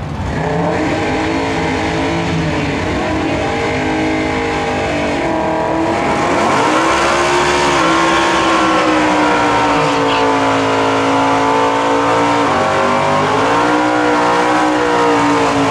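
Drag-racing vehicles' engines at full throttle, pitch climbing through the gears with a dip and rise at each upshift, about six seconds in and again near twelve and a half.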